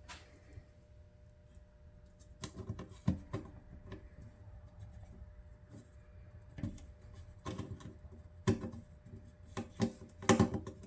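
Irregular small clicks and knocks of a screwdriver, screws and case parts being handled while the cover is refitted, with a cluster of louder clicks near the end, over a faint steady hum.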